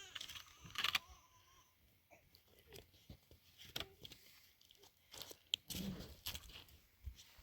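Scattered soft crunches, rustles and small clicks, with a louder crackle about a second in.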